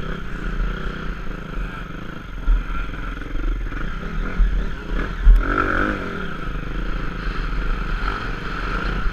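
Dirt bike engine running, with the revs rising and falling sharply about halfway through.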